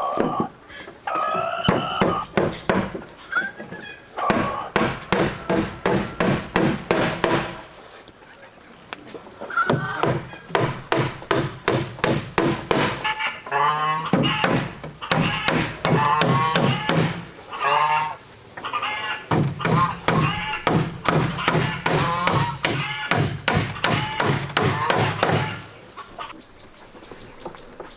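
Rapid, even knocks, about three a second, in two long runs with a pause between, while poultry call over them in short honking cries.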